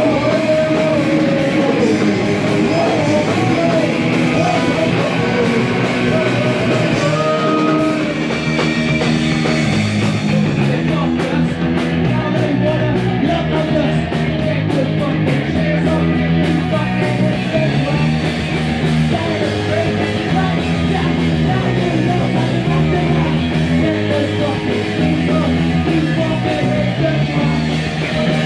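Live punk rock band playing loud and fast, with bass, drums and crashing cymbals, and a singer's vocal line over it in the first few seconds.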